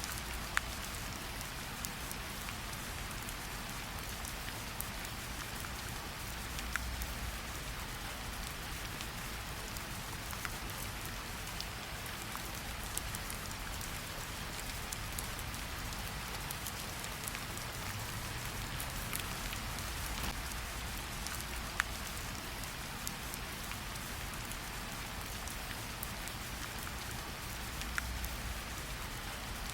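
Steady rain falling, an even hiss with a few sharper drop hits scattered through it.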